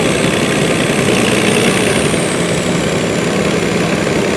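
Pulling vehicle's engine running loud and steady under heavy noise, with a thin high whine above it that rises a little and falls away.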